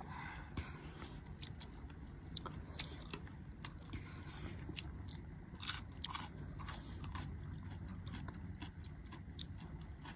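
A person chewing a mouthful of noodles and raw vegetables, with scattered crisp crunches and mouth clicks throughout.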